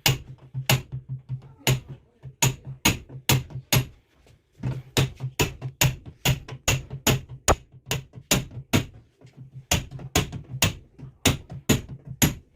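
Repeated hammer strikes, about three a second, sharp with a dull low thud to each, stopping briefly about four seconds in and then going on.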